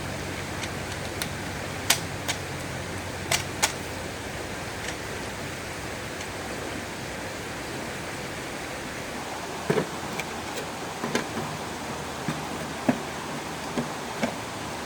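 A stream running steadily, with sharp clicks and knocks now and then: two pairs in the first four seconds and a scattered cluster in the last five.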